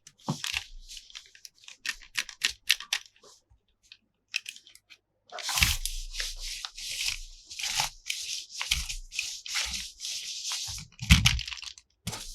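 Toy packaging being handled and opened: scattered clicks and crackles, then from about five seconds in a long stretch of tearing and crinkling with a few knocks.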